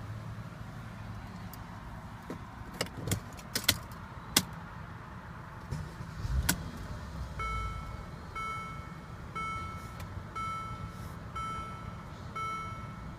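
Scattered clicks and rattles of getting into a Mercedes-Benz ML350, and a dull thud about six and a half seconds in. Then the car's electronic warning chime starts, sounding about once a second.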